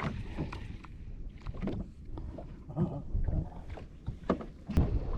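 Fishing boat at sea: a low rumble of wind and water with scattered knocks and clicks, the rumble growing louder near the end.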